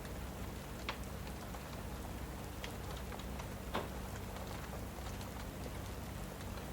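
Steady rain hiss mixed with a crackling fireplace, with a few sharp pops, the loudest about a second in and just before the four-second mark.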